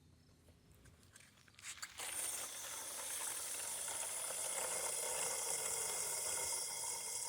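Steady hiss of running water that starts suddenly about two seconds in, after near silence, as water flows from a hose to fill the van's water tank.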